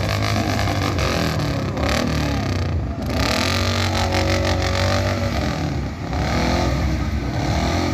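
Off-road vehicle engine revving hard under load, its pitch repeatedly rising and falling, with brief easings about three and six seconds in.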